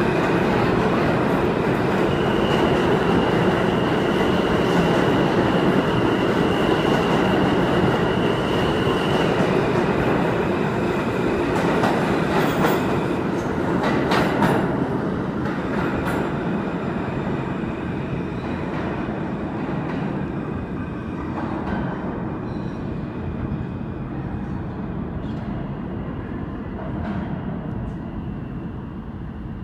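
R160A subway train running out of the station: loud motor and wheel noise with a steady high tone for several seconds, a cluster of rail clicks midway, then fading steadily as it pulls away.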